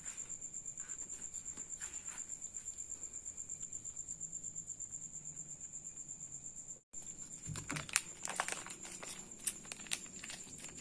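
Cricket chirping: a steady, high, rapidly pulsing trill. About seven seconds in it cuts off for an instant, then resumes with a run of sharp clicks and rustles over it.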